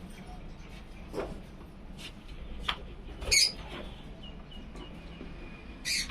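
Caged lovebirds giving a few short, sharp chirps, the loudest about three seconds in, over a low steady hum.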